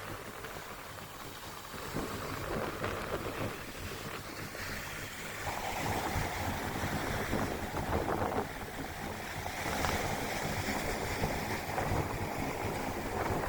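Strong gusty wind rushing over the microphone along with breaking surf. The wind grows louder about five seconds in.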